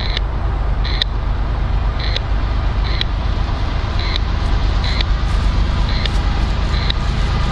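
Low, steady rumble of an approaching CSX freight train's diesel locomotives, growing a little louder toward the end. A short high chirp repeats about once a second over it.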